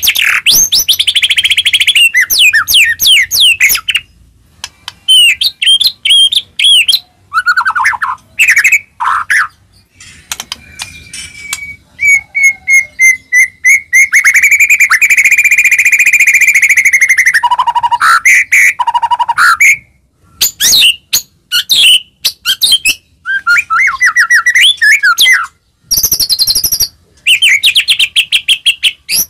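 White-rumped shama singing a loud, varied song of fast rising and falling whistles, trills and rattling note series, with short gaps between phrases. About halfway through it holds one long whistle.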